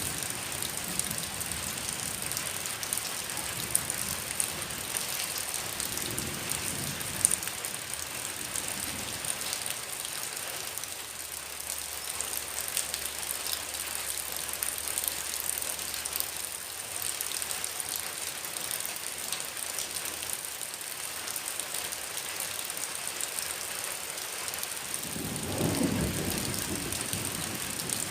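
Heavy rain falling steadily, a dense even hiss with sharp patter of drops hitting surfaces. Near the end a low rumble swells for a couple of seconds and fades.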